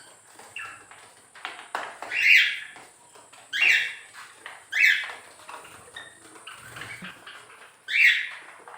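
Cockatiels giving four loud, harsh squawking calls, with fainter chirps between them.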